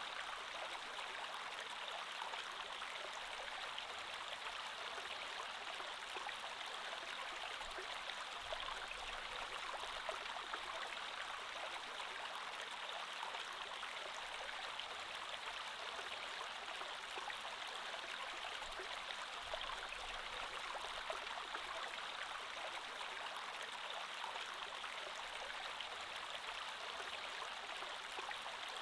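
Creek water flowing steadily over stones, an even rushing hiss with small flickers of trickling and splashing.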